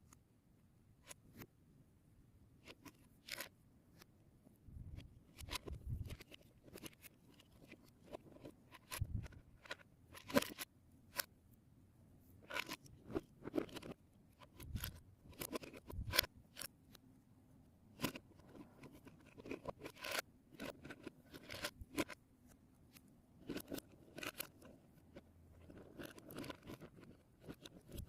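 Plastic Lego Technic pieces clicking, snapping and clattering as they are handled and fitted together, in irregular sharp clicks with a few heavier knocks.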